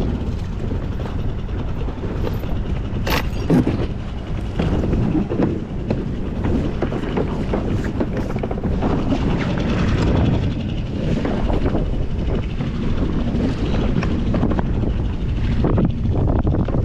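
Small 2-horsepower outboard motor running steadily as an inflatable boat heads out, with wind buffeting the microphone and a few sharp knocks about three seconds in.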